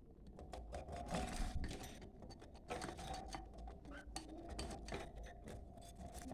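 Budgerigars chattering and warbling, with many rapid clicks and short scratchy calls: the busy budgie chatter used to get a pair in the mood to breed.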